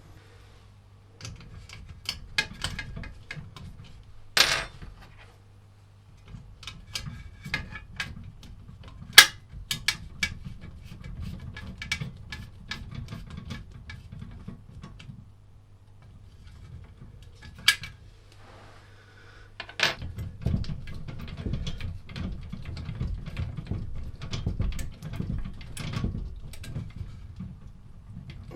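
Hand work at a workbench: scattered clicks and knocks of tools and small metal parts being handled, the loudest about four and a half seconds in, and again at about nine and about twenty seconds, over stretches of low rumbling.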